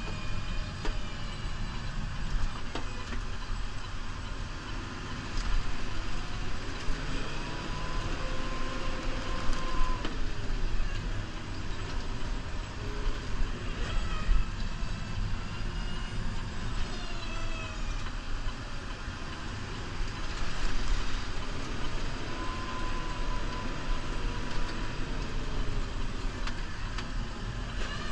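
New Holland Powerstar 75 tractor's diesel engine running steadily under load while plowing heavy snow, with faint whining tones that rise and fall.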